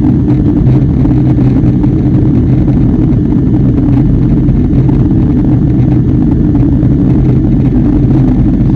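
Airliner cabin noise: a steady, loud low drone of jet engines and airflow, with a hum around two low pitches and no separate events.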